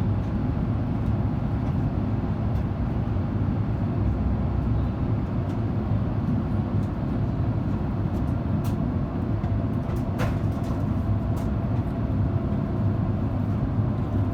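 Steady cabin noise of an Airbus A350 in flight, heard inside the cabin: a deep, even rumble of its Rolls-Royce Trent XWB engines and airflow, with a faint hum over it and a couple of small clicks about midway.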